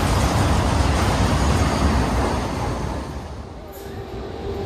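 Freight train of covered goods wagons passing close by at speed, a dense steady rumble of wheels on rail that dies away as the last wagon goes by about three seconds in. The noise starts to build again near the end.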